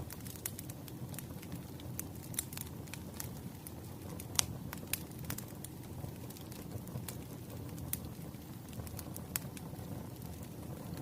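Firewood burning in an open fire: the flames make a steady low rumble, with scattered sharp crackles and pops from the logs. The loudest pop comes about four seconds in.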